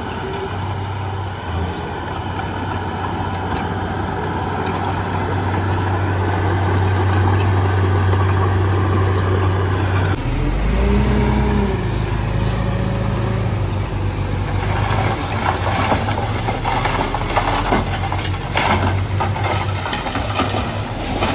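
Heavy diesel earthmoving machinery running steadily. About ten seconds in the engine note changes abruptly with a brief rise and fall in pitch, and in the later part a series of knocks and clanks sounds over the engine.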